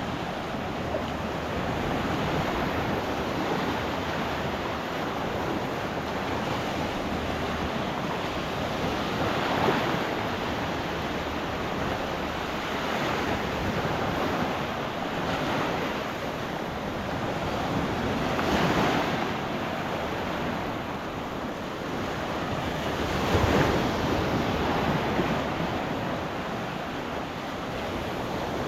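Gulf surf: small waves breaking and washing up the beach in a steady rush, with three louder breaks standing out.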